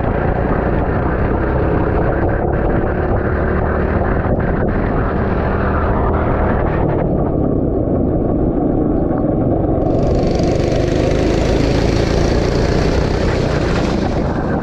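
Go-kart engine running on track, its pitch rising and falling with speed, over a heavy low rumble of wind on a helmet-mounted microphone. About ten seconds in, a bright hiss joins and lasts about four seconds.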